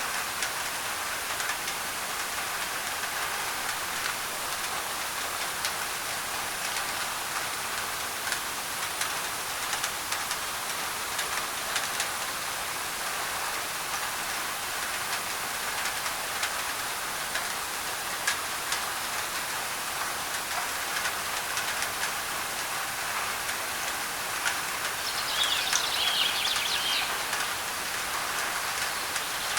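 Steady rain falling on a thin tin roof, with scattered sharp drop ticks, blended with white noise. A bird chirps several times near the end.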